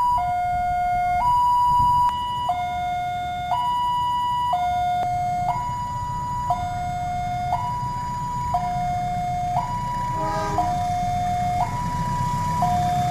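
Railway level-crossing warning alarm sounding a two-tone high-low signal, switching pitch about once a second, over a low rumble of traffic waiting at the crossing.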